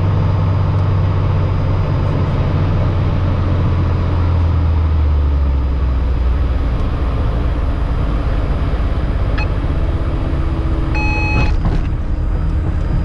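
Steady low rumble of an airliner landing at or rolling on the runway, with a short electronic tone about eleven seconds in.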